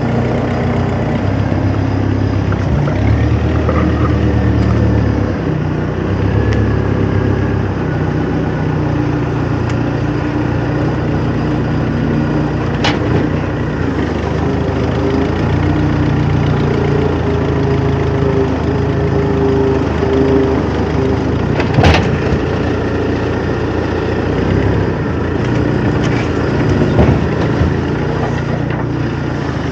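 A vehicle engine running steadily at a low idle, its pitch shifting up and down slightly. There are two sharp clicks or knocks, one about halfway through and a louder one later.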